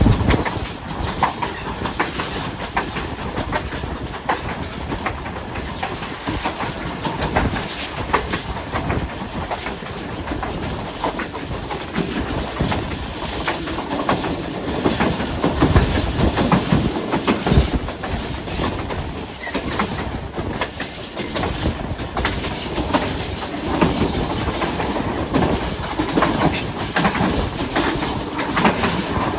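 Hazara Express passenger train running along the track, its wheels clattering over the rails in an irregular clickety-clack with a steady rumble.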